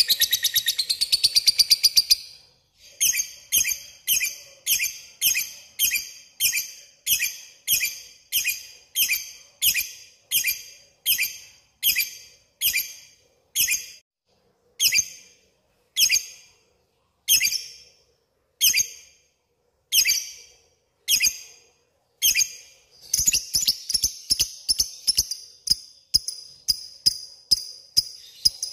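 Lovebird calling. It opens with a fast chattering trill, then gives a run of sharp, shrill chirps about two a second that slow to about one a second midway, and breaks into a fast chatter again near the end. This is the 'ngekek' chatter that bird keepers play to challenge and call other lovebirds.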